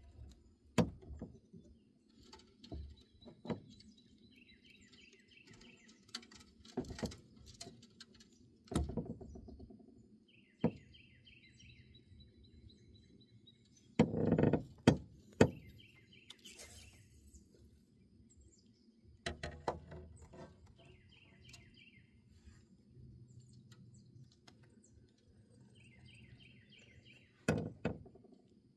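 A bird's short, fast trill of repeated notes, given five or six times about every five seconds. Between the trills come scattered knocks and thumps, the loudest cluster about halfway through.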